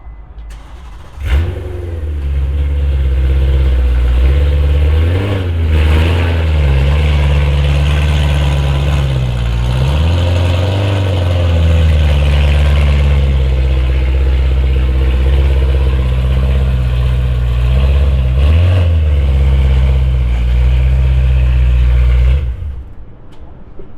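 A BMW E92 M3's V8 with a loud aftermarket exhaust starts with a sharp bark about a second in and idles loudly. It is revved briefly three times, then shut off suddenly near the end.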